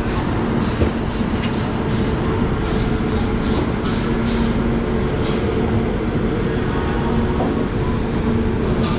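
Passenger train rolling out of a station, heard at an open coach door: a steady rumble of wheels on rail with a constant hum and a few short high clicks.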